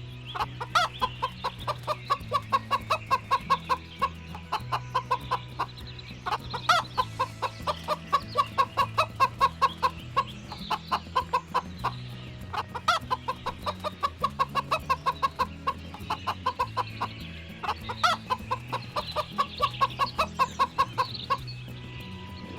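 Chicken clucking in fast runs of short clucks, about five a second, over background music with sustained low notes.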